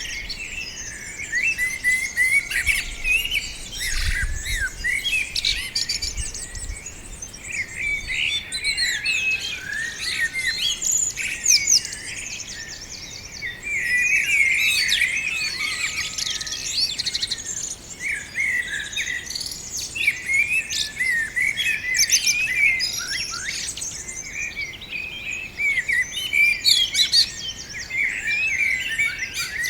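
Several small songbirds chirping and singing at once, a dense, continuous chatter of short high chirps and trills. A brief low rumble comes about four to seven seconds in.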